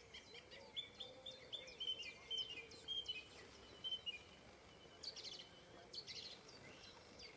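Faint songbirds singing in the open: many short, high chirps and trills, with a quick run of repeated notes in the first few seconds, over a faint steady hum.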